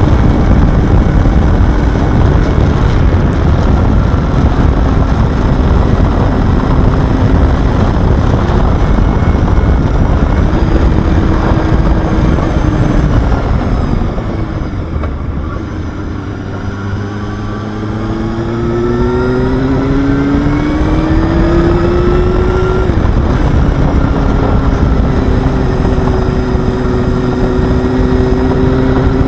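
Honda Hornet inline-four motorcycle engine running under load, its pitch holding, dropping back about halfway, then climbing steadily for several seconds before falling as it shifts, with rushing wind noise.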